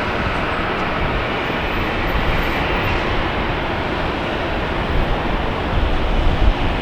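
Jet airliner engine noise, a loud steady rushing sound, with wind buffeting the microphone in low gusts near the end.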